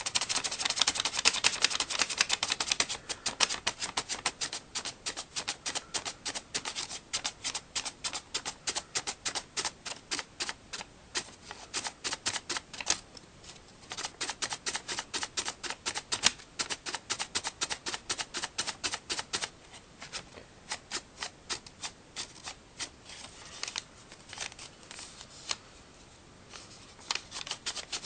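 Folded paper origami flapping bird having its wings flapped: a fast run of crisp paper clicks, several a second, with a few short pauses.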